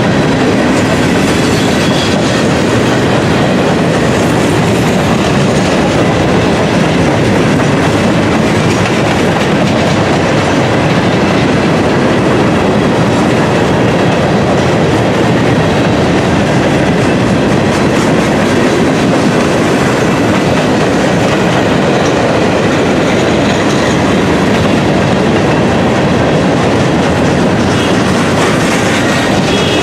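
Freight train of gondola cars rolling past at steady speed: loud, continuous rumble of steel wheels on rail with a clickety-clack over the rail joints.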